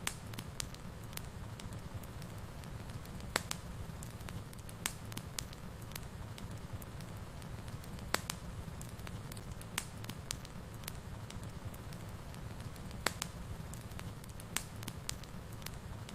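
Wood fire in a fireplace crackling, with irregular sharp pops over a steady low rumble of the burning.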